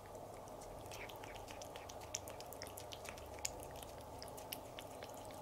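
Siamese kitten licking and chewing a Churu lickable treat paste: faint, quick wet clicks and smacks, several a second, with no steady rhythm.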